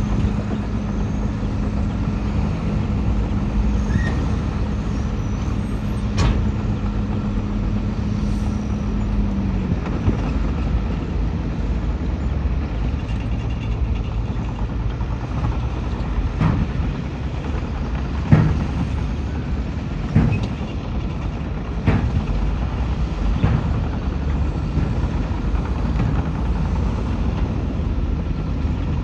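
Heavy diesel earthmoving machinery running: a steady low engine rumble. A held tone drops out about a third of the way through, and there are several sharp metallic clanks in the second half.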